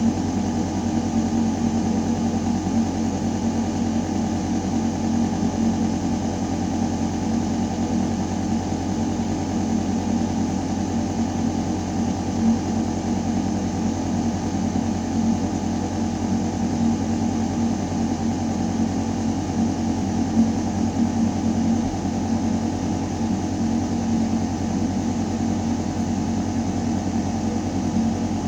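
Building ventilation system running in a shaft: a steady, deep mechanical hum of air moving through metal ductwork, with one strong low tone that holds without change.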